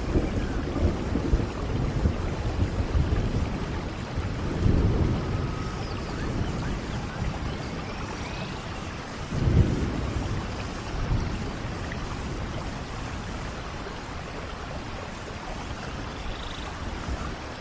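Steady rain with rolling thunder, and two stronger rumbles about five and nine and a half seconds in.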